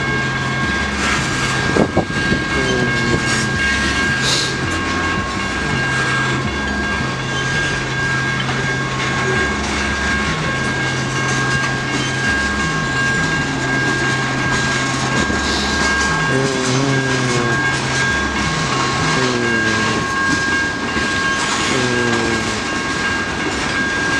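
CSX freight train of tank cars rolling through a road crossing, its wheels clacking over the rail joints in a steady rumble.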